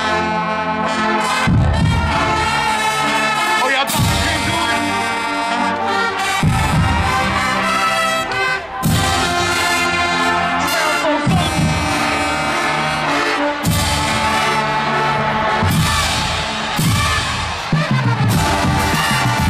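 HBCU marching band playing loudly: trumpets and trombones carrying the tune over heavy drum hits that come every couple of seconds.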